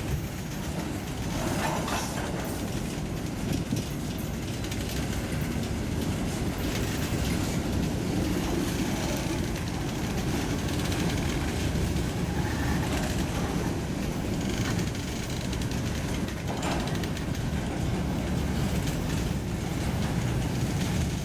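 Railroad cars rolling past steadily with a low rumble, with a few sharper clicks along the way.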